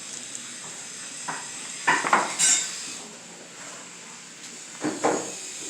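A few short bursts of clattering and knocking from hard objects being handled: a brief one about a second in, a longer cluster about two seconds in, and another near the end. A steady hiss runs underneath.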